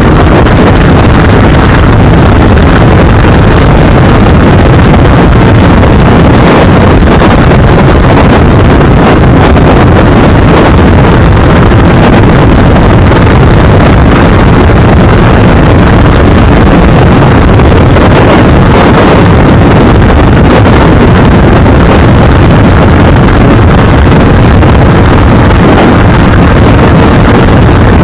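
A moving vehicle's steady engine and road noise, buried in heavy wind rushing over the microphone, at a constant, very loud level.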